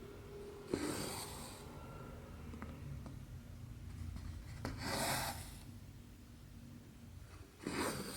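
Embroidery thread being drawn through cross-stitch canvas, a short rasping pull three times, about 1, 5 and 7.8 seconds in, with faint clicks of the needle piercing the fabric between pulls.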